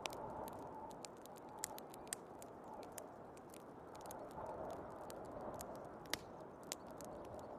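Wood fire crackling with many irregular sharp pops over the steady, swelling rush of a snowstorm wind.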